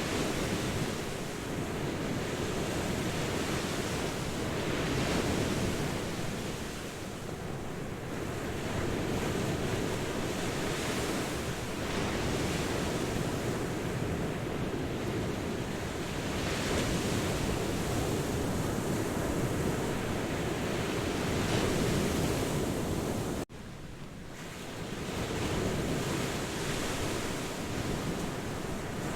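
Ocean surf: waves washing in and breaking, with the rush swelling and easing every few seconds. There is a brief, sudden drop in level about three quarters of the way through.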